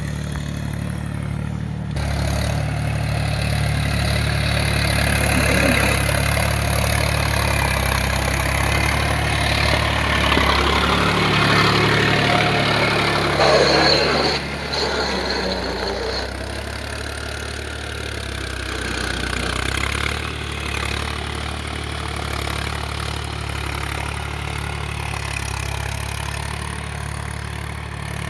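Small engine of a homemade mini tractor running, with a busier, louder stretch about halfway through before it settles to a steadier run.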